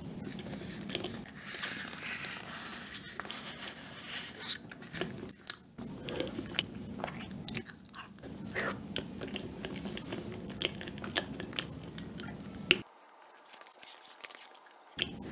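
Close-miked eating of a thick, sticky cup pudding from a wooden spoon: wet chewing and small mouth clicks and smacks. Near the end it goes quieter, leaving only faint ticks as the spoon scoops from the paper cup.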